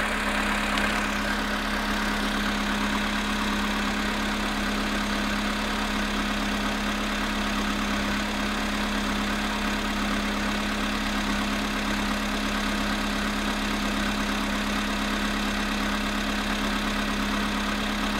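Volkswagen Polo sedan's four-cylinder petrol engine idling steadily after a cold start at −5.5 °C, with the fast, even knock that a cold engine gives before it warms up.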